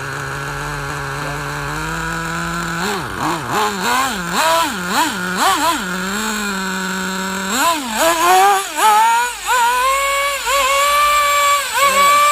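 Traxxas T-Maxx 3.3's small two-stroke nitro engine idling, then blipped up and down about six times in quick succession. After a short steady stretch it is revved up and held high, dipping briefly a few times.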